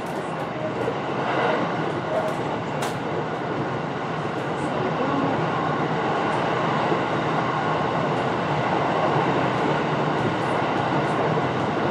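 Electric commuter train running between stations, heard from inside the passenger car: a steady rumble of wheels and running gear with a few faint clicks, growing a little louder over the first few seconds.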